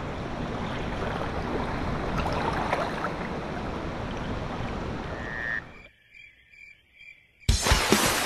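Steady rush of a jungle river with frog calls over it. Near the end it drops to a brief near-silent lull with a few faint chirps, then drum-kit music starts.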